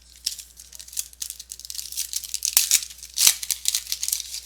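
Foil wrapper of a baseball card pack being torn open and crinkled by hand: an irregular, crackling rustle, loudest a little past three seconds in.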